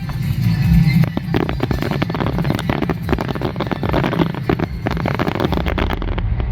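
Fireworks exploding in quick succession, a dense stream of sharp bangs and crackles over a steady low rumble.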